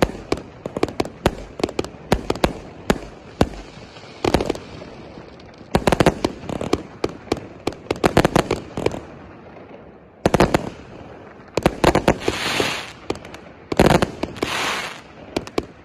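A 0.8-inch, 100-shot firework cake firing: sharp bangs in quick volleys with short pauses between them. Near the end two hissing rushes, each about a second long, mix with the bangs.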